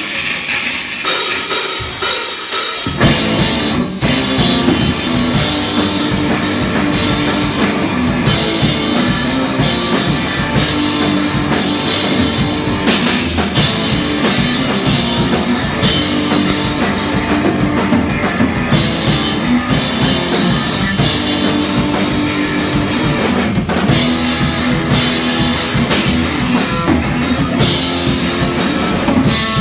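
A live rock band playing loud, with drum kit, cymbals and electric guitar. It starts sparse, and the full band with bass and drums comes in about three seconds in.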